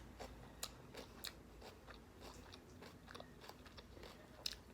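A person chewing food close to the microphone: a run of soft, irregular clicks, with one sharper click near the end.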